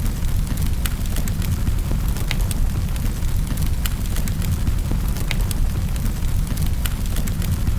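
Wood fire in a fireplace crackling: a steady low roar of flame with frequent sharp pops and snaps at irregular intervals.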